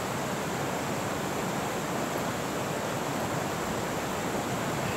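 Steady, even rush of a fast-flowing mountain creek, unbroken throughout.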